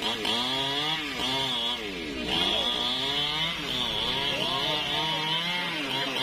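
Newwest 628 two-stroke chainsaw running, its engine pitch rising and falling again and again as the throttle is worked, with a high buzzing whine above it.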